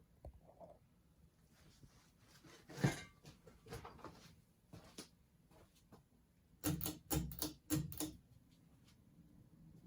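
Emerson ceiling fan running and wobbling hard, with scattered sharp knocks and clicks: one about three seconds in, then a quick run of about five knocks a little past halfway. The owner puts the wobble down to a warped flywheel.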